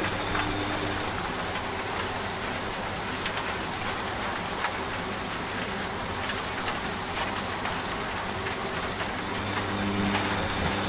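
Steady rain with scattered drop ticks. Under it a washing machine hums low and steadily at the start, fades out after about a second, and comes back strongly near the end.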